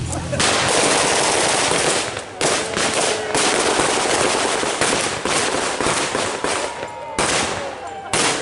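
Blank-firing machine guns in long bursts of rapid fire, with short breaks, and two brief bursts near the end.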